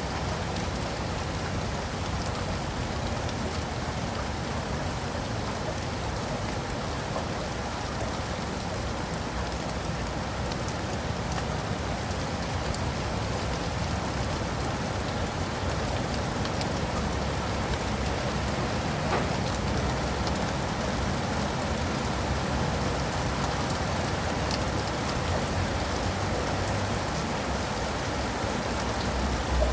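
Steady rain falling on leaves and pavement, an even patter with a low rumble underneath.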